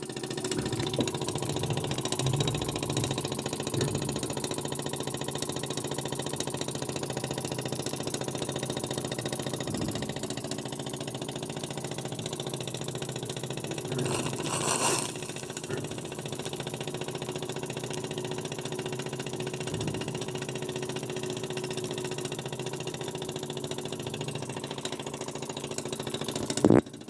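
Burnac Vulcan model steam engine running steadily with a fast, even beat, over a hiss of steam escaping from a leaking flange. About halfway through there is a brief, louder rush of steam, and just before the end a single sharp knock.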